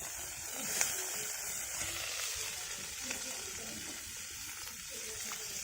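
Food frying in a pan over a campfire, a steady sizzling hiss with a couple of small clicks.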